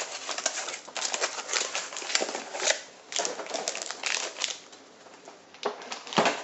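Plastic zip-top bag crinkling and crackling in irregular bursts as a Milwaukee M18 battery is handled in it, with a brief lull about two-thirds of the way through.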